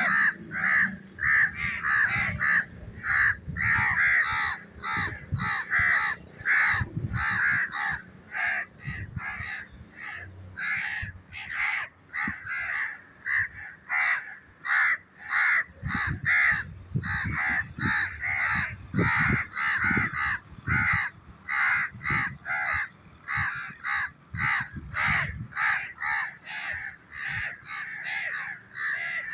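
A bird calling over and over with short, harsh squawks, about two a second without a break.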